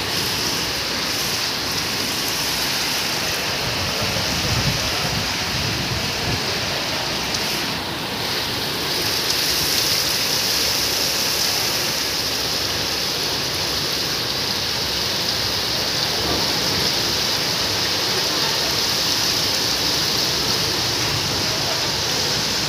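Heavy rain pouring onto a flat brick rooftop and the water pooled on it, a steady hiss.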